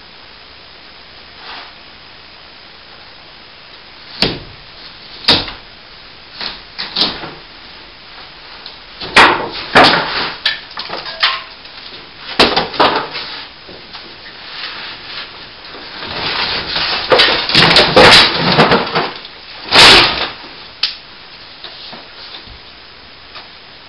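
Broken plasterboard and ceiling debris being handled and dropped: irregular knocks and thumps starting about four seconds in, turning into a busier stretch of clattering near the end.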